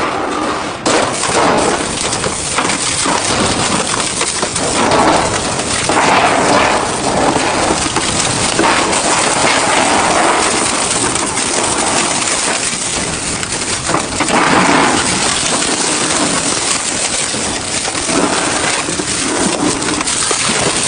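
Industrial double-shaft shredder tearing up scrap metal: a continuous loud grinding crunch full of sharp cracks and bangs, swelling now and then.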